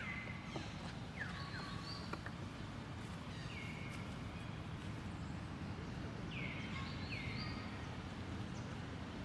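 Repeated short, high-pitched animal calls, each dropping in pitch, several coming in quick pairs, over a steady low background noise.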